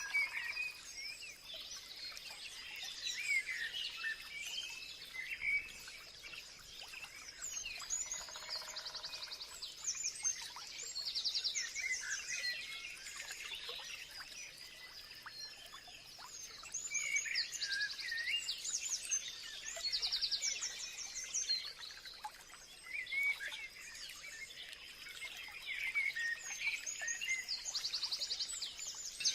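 Several birds calling and singing together: short chirps, whistled slurs and quick high trills that recur every few seconds, over faint steady background noise.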